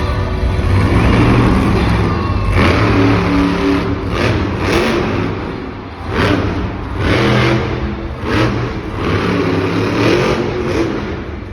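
Monster truck engine revving hard in repeated surges, its pitch climbing and dropping every second or two.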